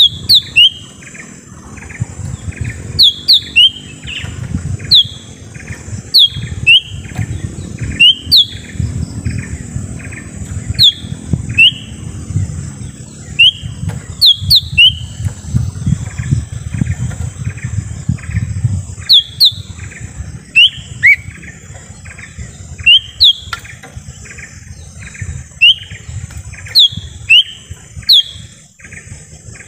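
Cucak ijo mini (lesser green leafbird) calling: loud, sharp downward-sliding whistled notes, often in pairs, repeated every second or two. Behind them run a fast, even series of softer short notes, a steady high hum and a low rumble.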